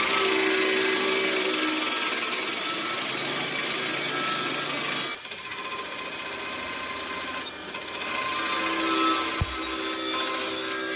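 Power tool working wood, running continuously with two brief drops, about five and seven and a half seconds in, and a short low knock near the end.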